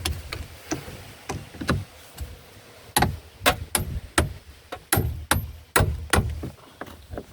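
Irregular sharp metallic clicks and knocks, about fifteen of them, from hand tools and loose metal parts on a car's bodywork during interior stripping. The knocks grow louder about three seconds in, and a few ring briefly.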